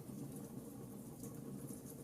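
Wood fire burning in a fireplace: a steady low rustle of the flames with a few faint crackles.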